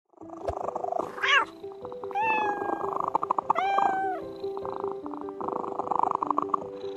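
A cat meowing three times over soft background music with held notes: a short rising call about a second in, another just after two seconds, and a longer drawn-out meow around four seconds.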